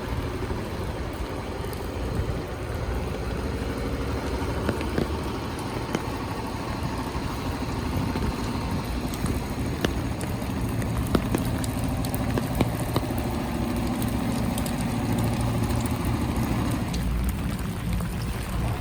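Rainy city street ambience: the steady hiss of rain with motor traffic running nearby, and scattered sharp ticks throughout.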